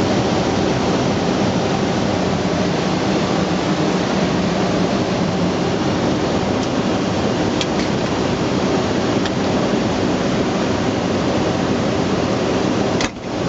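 Steady rushing air noise inside an airliner in flight, with a faint low hum under it; the level dips briefly near the end.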